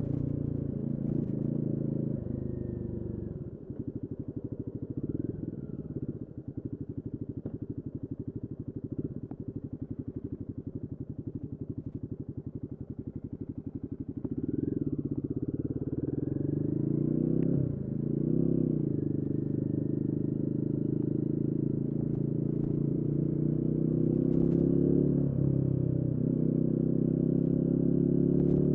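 Royal Enfield Guerrilla 450's single-cylinder engine running under way. It drops to a quieter, pulsing low-throttle note for about ten seconds, then pulls harder with a shift in pitch around the middle, and the revs climb slowly near the end.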